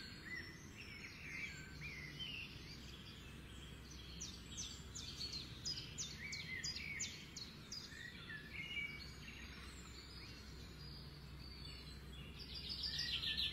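High chirping and twittering of birds: scattered chirps, then a quick run of short down-slurred chirps from about five to seven seconds in and again near the end, over a steady low background rumble.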